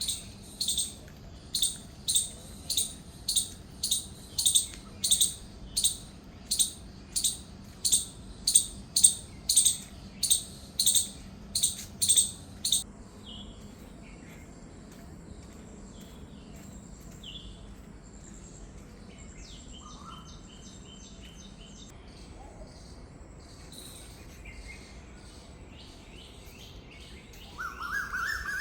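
Birds calling outdoors. One bird repeats a sharp, high call about twice a second for roughly the first half, then stops. Fainter scattered chirps follow over a thin, steady high whine, and a louder, lower call comes in near the end.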